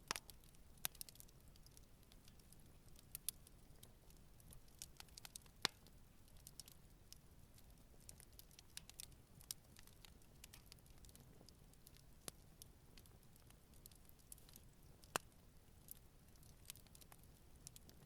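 Campfire crackling softly, with scattered sharp pops and ticks from the burning wood; the loudest pops come about five and a half seconds in and about fifteen seconds in.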